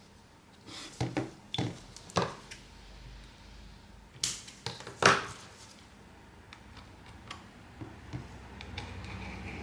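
Sharp clicks and taps of small repair tools and phone parts being handled on a workbench: a quick run of clicks in the first two seconds, then two louder ones about four and five seconds in.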